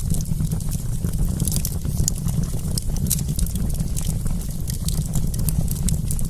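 Wood fire crackling: many small, irregular sharp pops and snaps over a steady low rumble.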